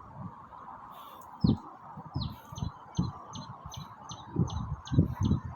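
A bird calling a rapid series of short, high, downward-slurred notes, about three a second, starting about a second and a half in. Dull low thuds sound irregularly underneath.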